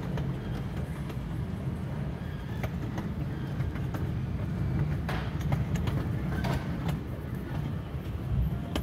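Small amusement-park ride train rolling along its track, heard from aboard: a steady low rumble with scattered clicks and clanks from the wheels and cars.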